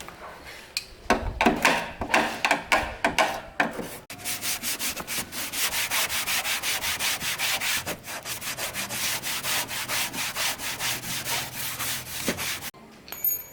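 Hand rubbing on a hard surface in back-and-forth strokes: uneven at first, then quick and steady at about five strokes a second, stopping abruptly about a second before the end.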